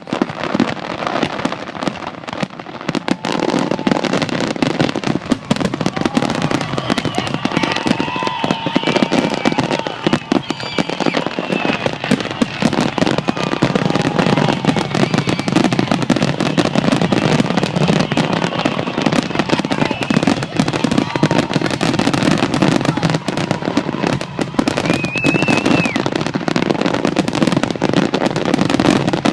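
Fireworks grand finale: a dense, continuous barrage of rapid bangs and crackles, many shells bursting in quick succession with no pause.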